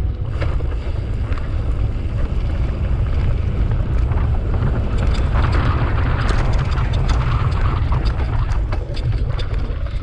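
Wind buffeting a camera microphone on a moving mountain bike, a steady low rumble, with tyre noise and frequent short clicks and rattles from the bike on a rough trail.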